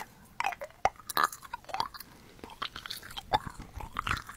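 Close-miked chewing of a small candy: irregular wet smacks, clicks and crunches from the mouth.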